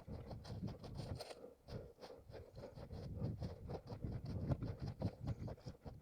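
A runner's footsteps and rustling scrapes through leaf litter and undergrowth, heard from a head-mounted camera: a rapid, irregular run of crunches and brushing sounds.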